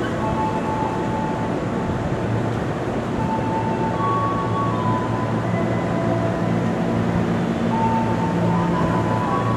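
An electric commuter train running slowly alongside a station platform. It gives a steady rumble and low hum, with short high-pitched tones that come and go every second or so.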